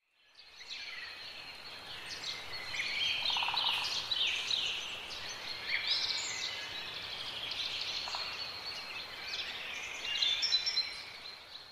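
Birds chirping, many short high calls overlapping into a steady chorus.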